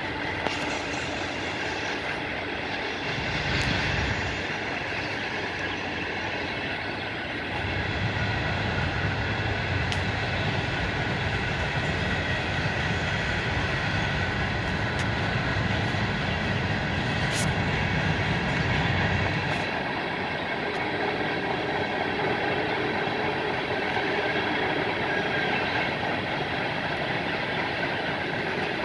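Freight train cars rolling past, their steel wheels running on the rails with a steady noise. A heavier low rumble swells briefly a few seconds in, then again for about twelve seconds through the middle.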